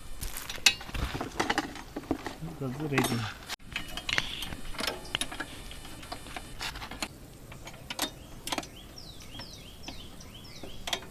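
Hand tools working on the mounting bolts of a Royal Enfield exhaust: scattered metal clicks and clinks of a spanner being fitted and turned.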